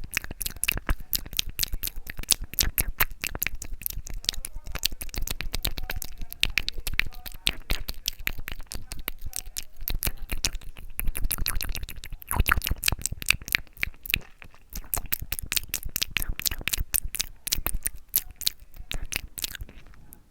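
Close-miked ASMR mouth sounds: rapid wet tongue and lip clicks and smacks, many a second, with a short pause about two-thirds through.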